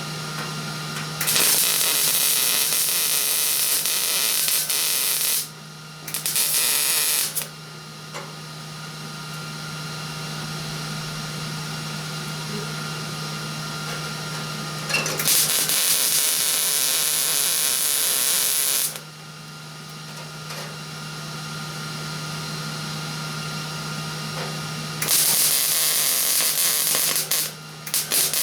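Electric welder's arc crackling in about five bursts of one to four seconds, plug welds being laid through holes in new sheet-steel rocker-panel metal. A steady low hum runs between the bursts.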